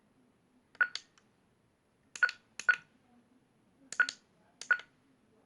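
Quasar ARM metal detector's speaker giving short, sharp beeps about six times at uneven spacing, some in quick pairs, as its search coil rests on a floor with steel rebar in it. The unit is faulty and will not work normally.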